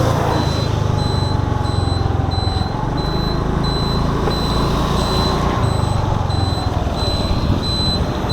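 Scooter ride: a steady low engine and road rumble, with a high electronic beep repeating about three times a second over it.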